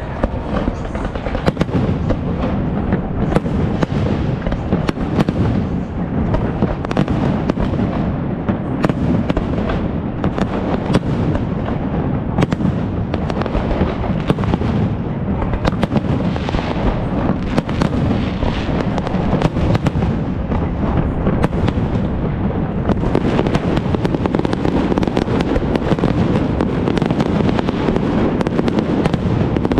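Fireworks display: a dense, continuous barrage of bangs and crackling shell bursts, growing denser about two-thirds of the way through.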